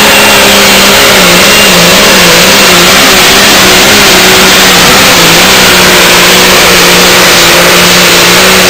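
Outlaw-class pulling tractor's high-horsepower diesel engine running flat out under load on a pull, a very loud steady engine note whose pitch sags briefly a couple of times.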